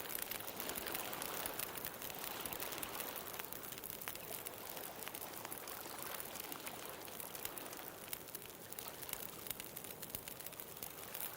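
Wood bonfire crackling with many small sharp pops over the wash of ocean waves. The waves swell near the start and again near the end.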